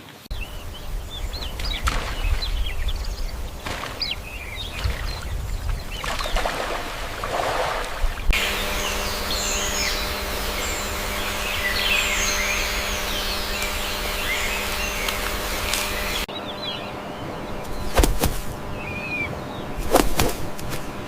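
Small birds chirping over outdoor background noise, in three clips joined by hard cuts about eight and sixteen seconds in. The middle clip holds a dense chorus of chirps; the last has a few sharp knocks.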